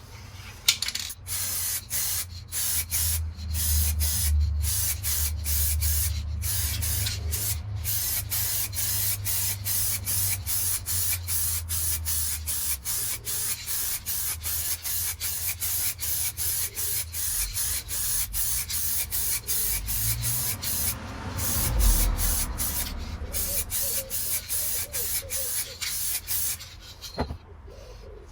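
Clear lacquer being sprayed onto a wheel: a hiss in many short bursts with brief breaks between them, stopping about a second before the end.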